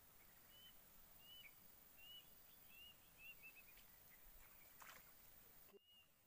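Faint bird chirping over quiet ambience: short arched chirps about once a second, running into a quicker series around three seconds in, with a brief rustle near the end.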